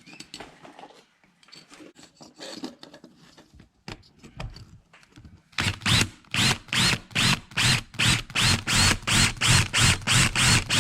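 Light clicks and rustling of small toy parts being handled. Then, about halfway through, a tool starts working on the diecast toy car in quick, even strokes, about three a second, each with a short rising squeal.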